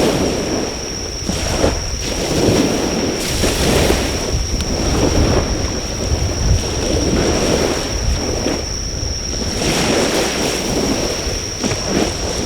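Sea waves washing onto the shore in repeated surges, with insects singing one steady high note throughout. Wind rumbles on the microphone underneath.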